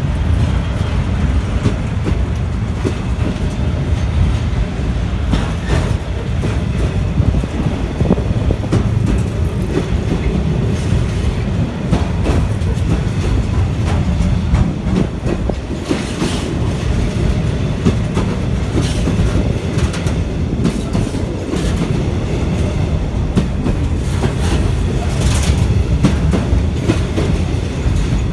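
Container wagons of a freight train passing close by at speed: a steady heavy rumble with the wheels clattering over the rail joints.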